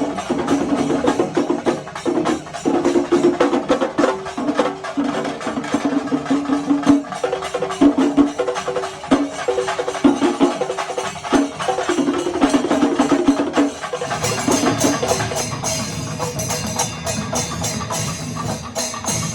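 Kerala temple-festival percussion ensemble playing: fast, dense drumming with clashing hand cymbals, and a wind instrument playing short, repeated phrases. About fourteen seconds in, the wind instrument stops and the cymbals come to the fore over the drums.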